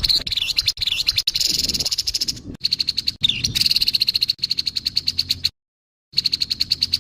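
Grey-headed babbler giving its harsh call: a fast, buzzy rattling chatter. It breaks off abruptly about five and a half seconds in, then starts again shortly before the end.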